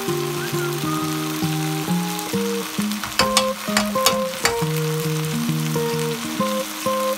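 Fish cake and vegetables sizzling as they are stir-fried in a wok, with a few sharp clicks of utensils against the pan about three to four and a half seconds in. A light melody of background music plays over it.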